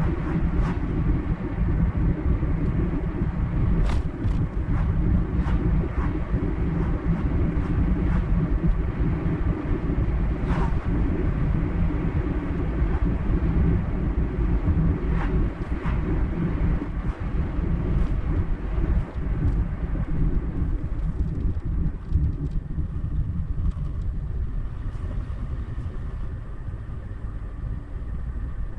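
Car driving on a paved road: steady low rumble of engine and tyres with scattered light ticks. It eases off a little near the end.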